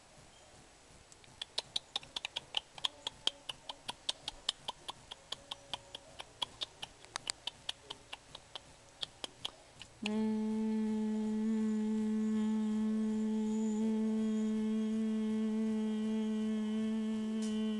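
A quick run of sharp, irregular clicks, about three or four a second, for some eight seconds. Then, about ten seconds in, a person starts humming one steady low note and holds it to the end.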